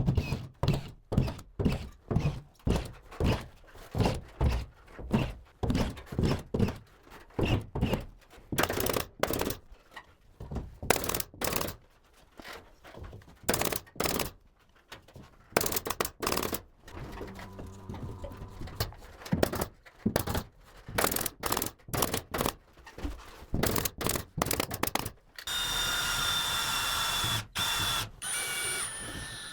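Ceiling carpentry work: a run of sharp knocks, about two a second at first and then irregular, like hammering or fixing boards into a framework. Near the end a small power tool runs steadily for about two and a half seconds with a slightly falling whine.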